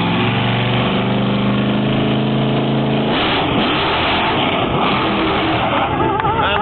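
Monster truck's methanol-burning engine held at high, steady revs, dropping away abruptly about three seconds in and leaving a rough rumbling noise.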